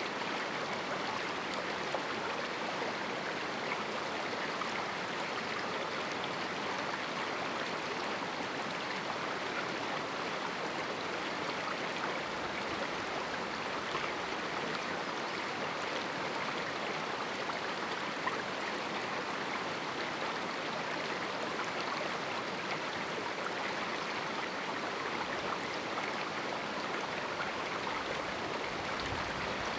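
River water flowing over rocks in a small canyon, a steady rushing babble.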